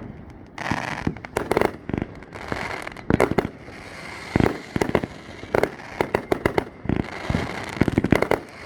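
Fireworks going off: a steady run of bangs and sharp pops, some in rapid clusters, with stretches of crackling hiss between them.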